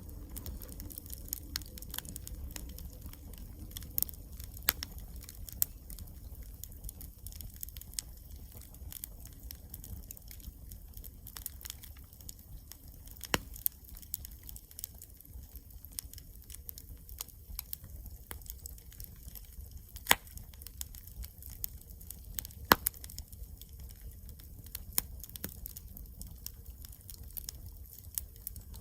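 Wood campfire crackling, with irregular sharp pops, a few much louder than the rest, over a low steady rumble.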